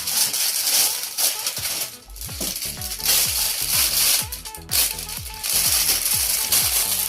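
Plastic toy packaging crinkling and rustling as the box is opened, over background music whose repeating low bass notes drop in pitch about three times a second from about two seconds in.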